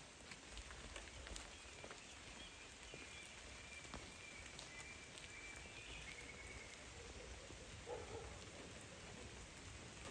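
Faint light rain: scattered drops pattering on leaves over a soft steady hiss, with a thin high whistle held for a few seconds around the middle.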